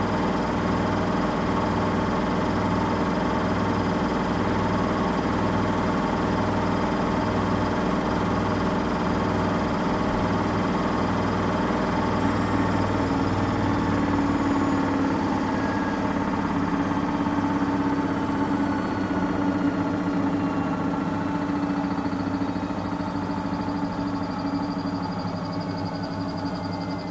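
Samsung Eco Bubble washing machine running: a steady mechanical hum with a low throb a little faster than once a second, which gives way about halfway to a steadier, higher hum that eases off slightly near the end.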